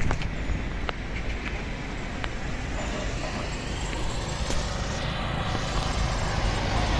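Isuzu 4x4 water truck running steadily, with a few faint clicks in the first second or two.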